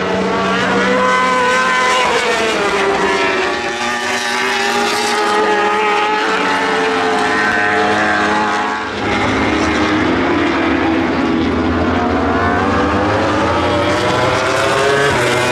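Superbike racing motorcycle engines at high revs, the pitch climbing and dropping with throttle and gear changes as bikes pass; the sound changes abruptly about nine seconds in.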